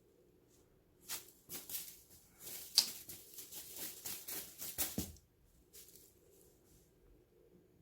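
Ragdoll cat making a run of quick, soft clicking and smacking sounds with its mouth for about four seconds, then stopping. The owner is unsure whether it is the lips parting or the teeth knocking together, and wonders about a jaw-joint problem.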